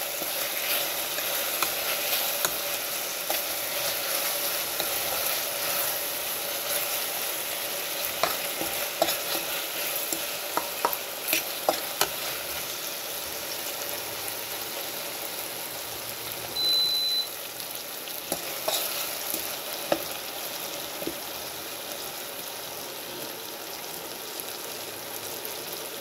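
Beef tapa sizzling steadily as it fries in a pan, while a utensil stirs it and clicks and scrapes against the pan now and then, most often in the first half. A brief high beep sounds about two-thirds of the way through.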